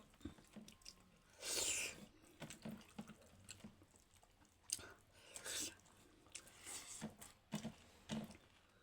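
Close-miked chewing and wet smacking of soft dhido dough and chicken gravy, with small clicks, and a louder mouth noise about a second and a half in and again about halfway through.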